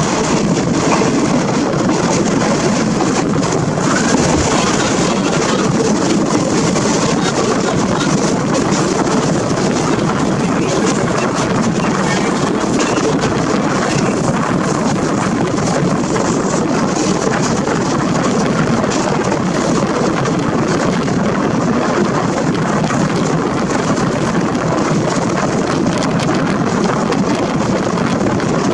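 Steady running noise of a moving passenger train, heard from an open carriage window: wheels rolling on the rails mixed with wind rushing past the microphone.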